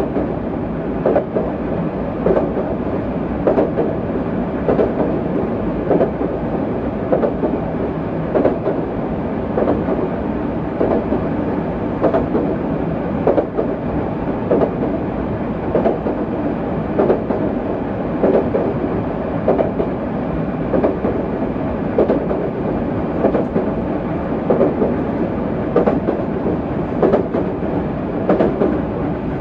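JR West 207 series electric multiple unit running at a steady pace, its wheels clacking over rail joints roughly once a second above a continuous rumble.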